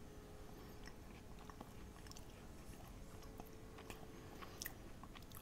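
Faint chewing of a mouthful of microwaved brownie, with a few small mouth clicks.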